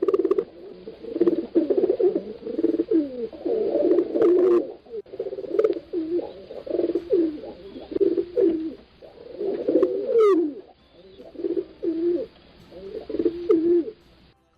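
Several pigeons cooing over one another in repeated low coos, with a few short higher chirps and a brief high falling squeak about ten seconds in.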